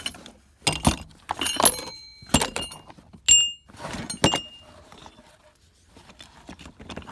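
Heavy steel sockets clinking against each other and against metal as they are handled and set down. A series of sharp metallic clinks with short ringing, the loudest about three seconds in, then quieter handling.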